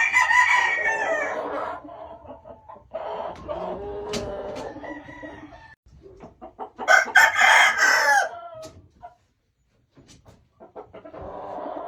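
Game roosters crowing: two loud crows, one right at the start and another about seven seconds in, with a fainter, more distant crow between them.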